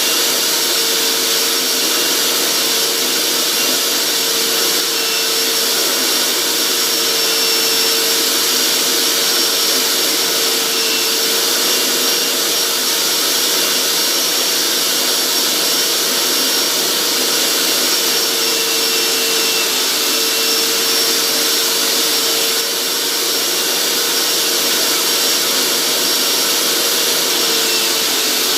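Hoover SteamVac carpet cleaner's motor running steadily with a high whine, its upholstery tool sucking water out of a soaked floor mat.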